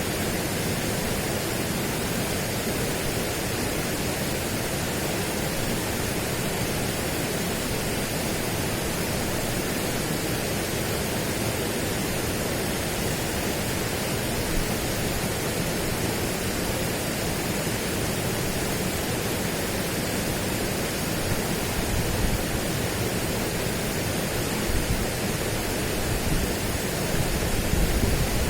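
Steady, even rushing noise with no tones or rhythm, with a few brief low rumbles swelling up near the end.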